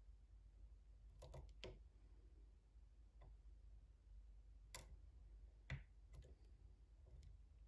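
Faint, scattered clicks of a lock pick working the pins of a pin-tumbler lock: a small cluster about a second in, then single clicks every second or so.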